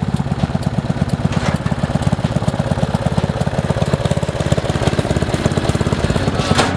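MTD lawn tractor's engine running steadily with a rapid even firing beat. A brief clatter cuts in about a second and a half in and again near the end.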